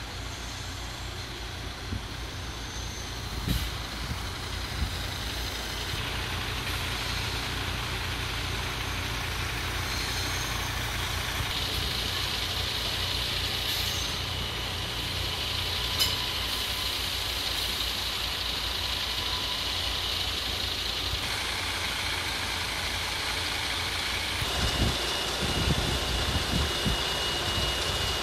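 Electric passenger trains standing at station platforms, with a steady low hum and hiss from their running equipment and a steady high whine in the second half. Low rumbles come near the end.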